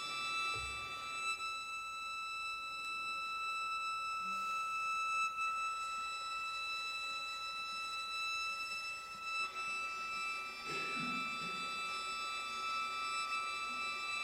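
Quiet chamber music for strings: violins hold long, high sustained notes that shift to a new pitch about nine and a half seconds in, with a few short low notes beneath them.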